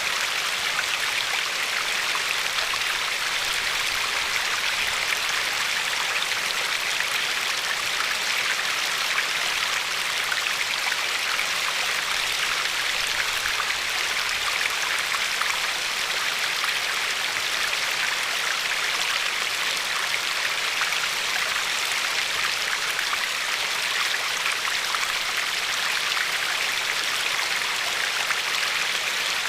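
River water running steadily over a pebbly bed, an even rushing hiss with no change.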